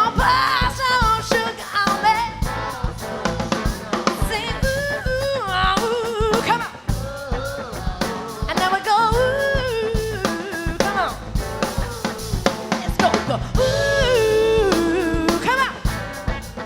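A live soul-funk band playing with a full drum kit and bass, while a lead voice sings wordless, bending vocal runs over it in a call-and-response section.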